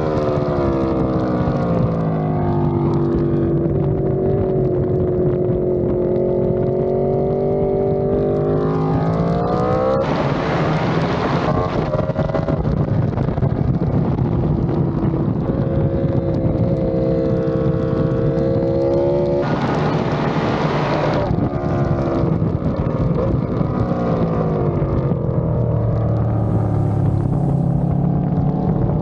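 Onboard sound of an Aprilia RSV4 sport bike's V4 engine at high speed on track, its note sweeping down and up with throttle and gear changes. Two bursts of rushing noise come about ten and twenty seconds in. Near the end the engine note drops as the bike slows for a tight corner, then starts to climb again.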